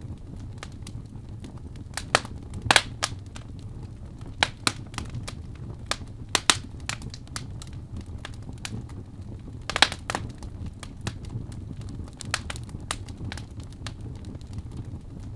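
Wood fire in a fireplace crackling, with irregular sharp pops over a steady low rumble. The loudest pops come a few at a time about two to three seconds in and once near ten seconds.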